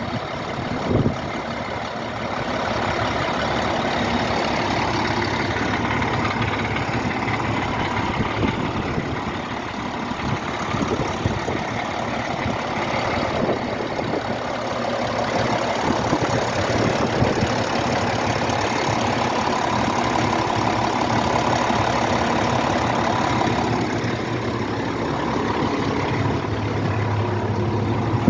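A 1998 International Harvester engine running steadily at idle. There is a single sharp click about a second in.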